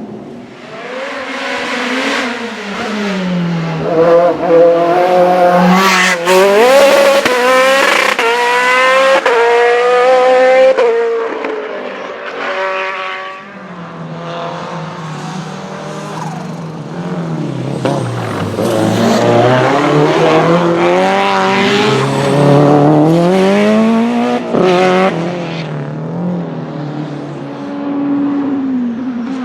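Race car engine at high revs, accelerating hard with quick upshifts: the pitch climbs and steps back down several times in a run, fades briefly, then climbs again through more shifts in a second run.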